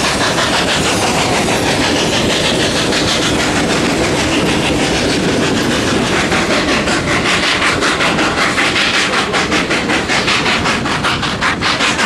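Narrow-gauge coal-fired steam train running. There is a steady rushing noise, and a fast, even rhythmic beat comes in about halfway through.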